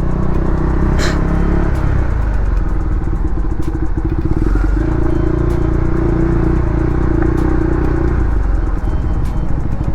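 KTM Duke 390's single-cylinder engine running under way as the motorcycle is ridden, holding a steady note through the middle, with one sharp click about a second in.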